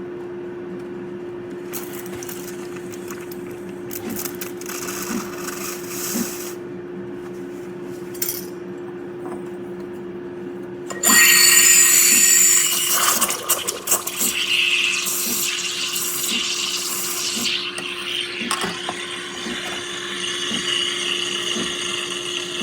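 Geek Chef espresso machine running with a steady pump hum and a faint regular pulse. About halfway through a loud hissing and sputtering starts and goes on unevenly to the end.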